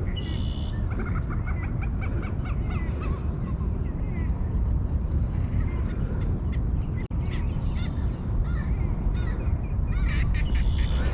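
Birds calling in quick series of short, pitched calls near the start and again near the end, over a steady low rumble of wind on the microphone.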